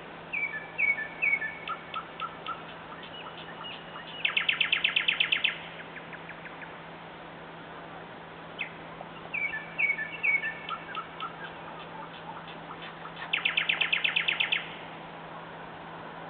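Nightingale singing two song phrases. Each opens with a few short whistled notes and ends in a loud, rapid rattle of about ten notes a second; the second phrase starts about nine seconds in. A steady low hum runs under it.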